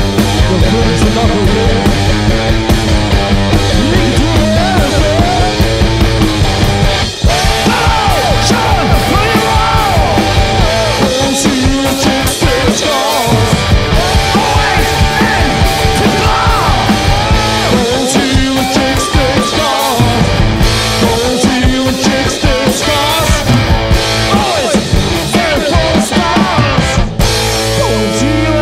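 Live punk rock band playing: electric guitar over a drum kit. Near the end the drums drop out and a chord rings on.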